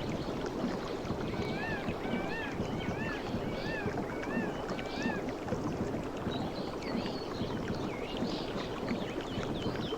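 Sea water washing and lapping steadily. A bird gives a run of about six short arched chirps in the first half, and scattered higher chirps follow in the second half.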